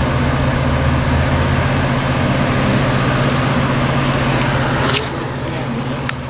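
Motor vehicle engine running with a steady low hum over street noise. The noise drops a little about five seconds in, and two short clicks come near the end.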